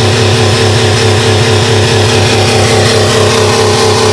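Buick LeSabre's 3800 V6 engine running steadily and loudly, its crankcase filled with yogurt drink instead of engine oil.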